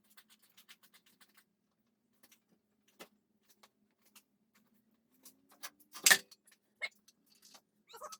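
Scattered light metallic clicks and ticks of tools and parts being handled during car disassembly, with one loud metal clank about six seconds in, over a faint steady hum.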